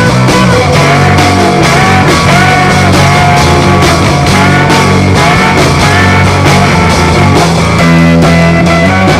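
Loud rock music with guitar over bass and drums, with notes that bend and glide, playing without a break.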